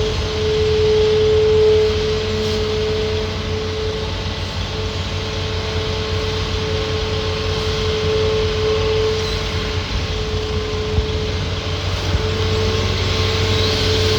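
Hitachi ZAXIS200 hydraulic excavator's diesel engine running steadily, with a steady whine held above the engine hum and a small knock near the end.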